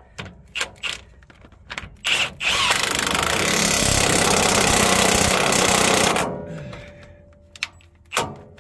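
A few light metal clicks, then a power tool, most likely an impact wrench, runs loud and steady for about three and a half seconds and winds down, tightening a loose front leaf spring mount bolt.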